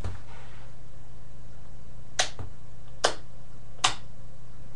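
A switch clicking three times, a little under a second apart, over a steady low electrical hum.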